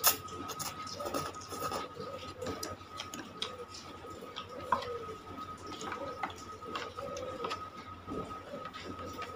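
Mouth eating sounds from chewing and slurping instant noodles: irregular wet smacks and clicks, one sharper click about a second in and another near the middle, over a faint steady high hum.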